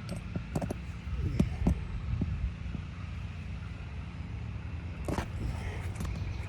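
A few short knocks and scrapes from a tool working at tar-covered shingles and their nails, over a steady low rumble.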